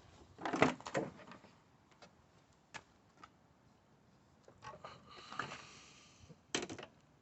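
Hand tools and plastic engine-bay parts being handled: a cluster of sharp knocks and clatters, a few single taps, a short scraping rustle, then another knock.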